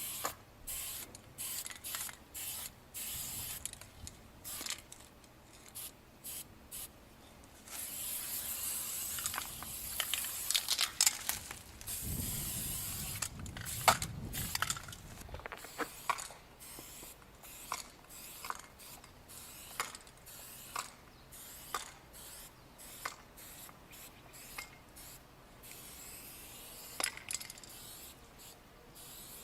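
Aerosol spray-paint can hissing in short bursts, about two a second, then in a longer continuous spray, with sharp clicks scattered throughout. A low rumble comes in for a few seconds around the middle.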